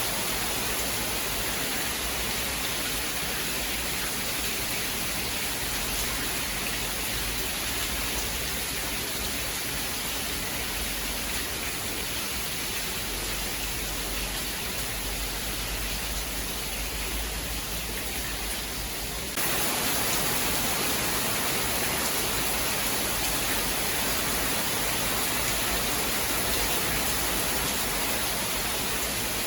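Steady heavy rain, an even hiss. About two-thirds of the way through, it jumps suddenly to a louder, brighter wash, as at a splice in the recording.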